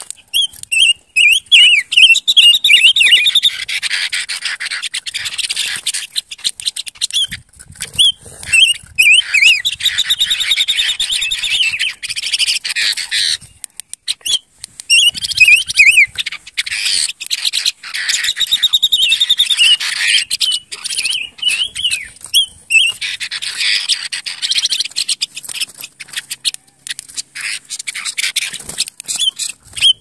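Silver-eared mesia (Leiothrix argentauris) calling: phrases of quick, high chirps and a fast trill, repeated about four times, with frequent short clicks in between.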